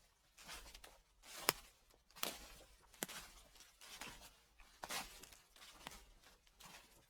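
Footsteps crunching through dry fallen leaves at a slow, even walking pace, roughly one step a second. One sharper crack stands out about one and a half seconds in.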